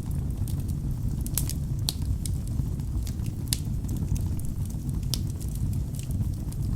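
Wood fire burning in a fireplace: a steady low rumble of flame with irregular sharp crackles and pops from the logs, a few louder snaps scattered through.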